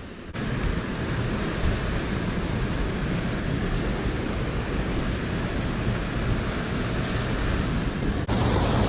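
Waterfall of storm runoff rushing steadily in a rain-swollen canyon. Near the end the sound cuts suddenly to a louder, hissier rush.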